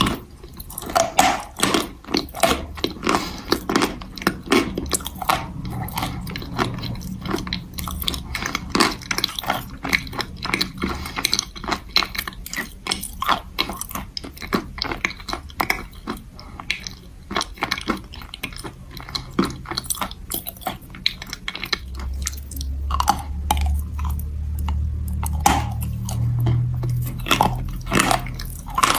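Close-up chewing of a mouthful of hard chalk ground to a white paste: many dense, gritty crunches. A low hum runs for a few seconds near the end.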